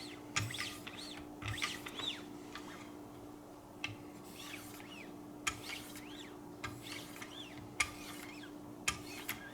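A bird chirping in short rising-and-falling calls, with several sharp clicks between them and a steady low hum underneath.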